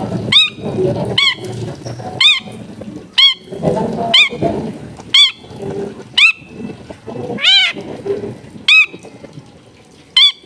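Long-tailed shrike giving short, sharp calls that rise and fall in pitch, repeated about once a second with a longer gap near the end, over a murmur of background noise.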